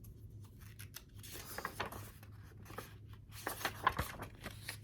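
Soft rustling and scraping of paper as a picture book's page is handled and turned, with a few light clicks about three and a half to four seconds in.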